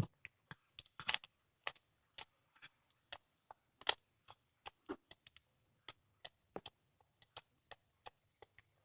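A cat chewing a squirrel carcass: irregular wet clicks and cracks of teeth working through flesh and small bones, a few a second, with a couple of louder crunches about a second and four seconds in.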